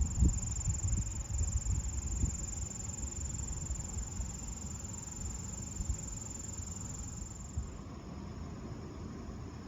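Wind buffeting a phone microphone, a gusty low rumble with irregular thumps that ease off after the first couple of seconds. Over it, a steady high-pitched trill runs and stops about three-quarters of the way through.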